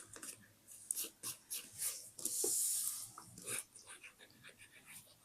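Paper being handled for scrapbooking: a string of crisp rustles and small taps, with one longer, louder rasping rub of paper a little past two seconds in.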